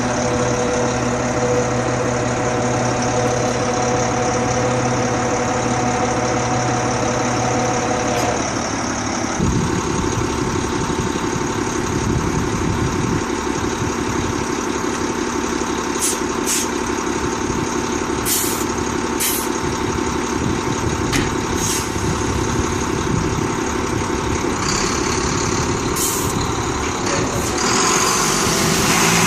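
Volvo A25D articulated hauler's diesel engine running steadily. Its note drops about nine seconds in and rises again near the end, with a few short high ticks midway.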